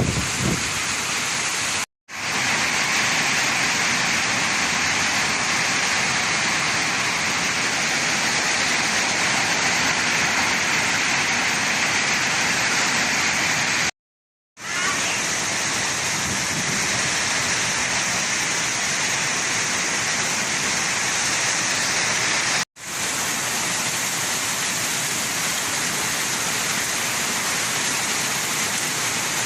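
Heavy rain falling in a steady, loud hiss. It drops out to silence three times for a moment: about two seconds in, around the middle, and about three quarters through.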